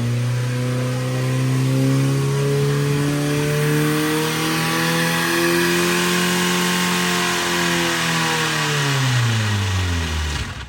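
A car engine held at sustained high revs while being run to destruction in an engine blow-up event. Its note climbs slightly, then drops away about nine seconds in, and the sound cuts off abruptly at the end.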